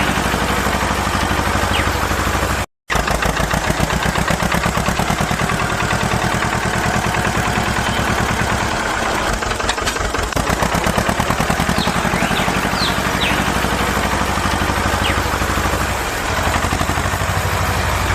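Small engine of a homemade mini tractor running steadily with a rapid, even putter, cut off for a moment about three seconds in.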